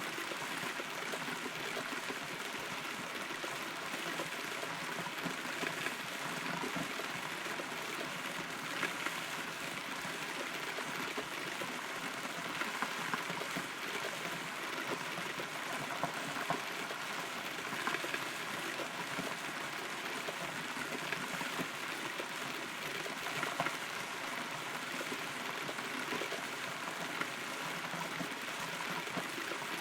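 Steady rain heard from inside a hollow rotten tree, with many separate drops ticking on the wood over the constant hiss.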